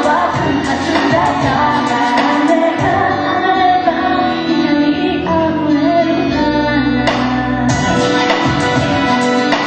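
A live band performing a song with singing, over a steady beat.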